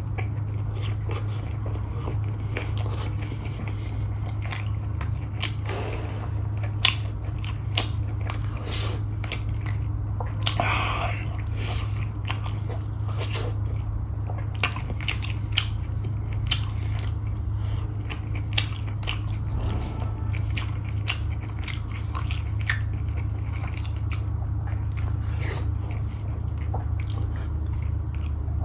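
A person chewing and biting food, with frequent small crunches and mouth clicks over a steady low hum; the food is skin-on chicken curry with dhido and rice.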